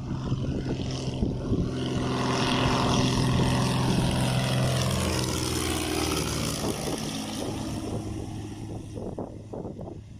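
Piper Pawnee 235 crop-duster's six-cylinder piston engine and propeller flying by low: the drone grows to its loudest a few seconds in, its tone sweeping as the plane passes, then fades away.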